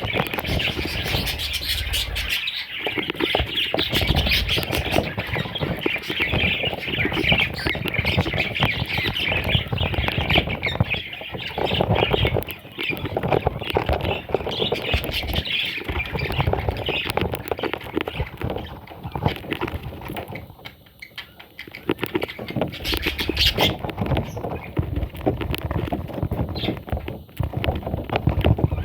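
Baby budgies squawking and chirping in a rapid, busy chatter, densest in the first ten seconds or so, with rustling and fluttering around them.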